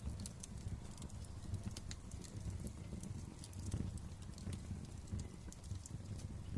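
Wood fire crackling in a fireplace: many small, sharp pops and snaps at irregular intervals over the low, steady sound of the burning.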